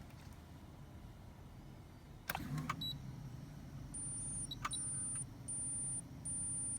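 A sharp click, then a steady low electric motor hum, with four short high beeps near the end. The car's engine is not running.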